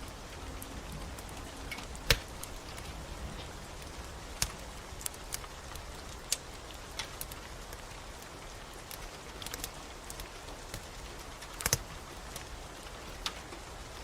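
Wood fire crackling, with sharp irregular pops scattered through (two louder ones, about two seconds in and near the end), over a steady hiss of falling rain.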